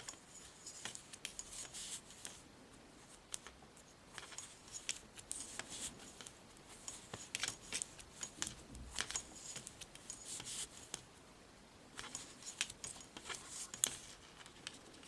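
Knitting needles clicking and rubbing against each other as a row of knit stitches is worked: light, irregular clicks, several a second, with short pauses.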